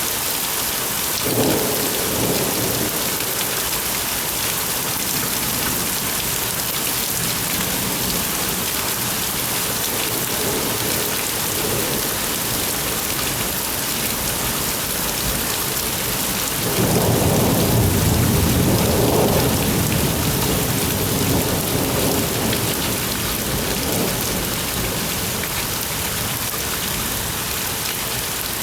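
Heavy rain falling steadily, with thunder: a short rumble about a second and a half in, then a louder, longer rolling rumble at about the 17-second mark that dies away over several seconds.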